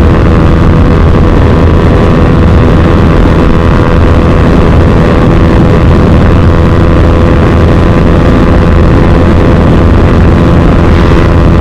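Motorcycle engine running loud and steady at constant cruising speed with no gear changes, mixed with wind rush on the microphone.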